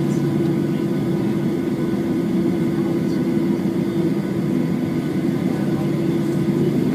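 Steady cabin noise of a Boeing 737-8 airliner, its CFM LEAP-1B turbofan engines running with a constant low hum and a few faint steady tones above it.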